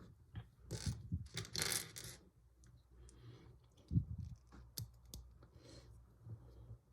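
Plastic Lego pieces being handled: scattered light clicks and clatter with short rustling bursts, and a sharper knock about four seconds in.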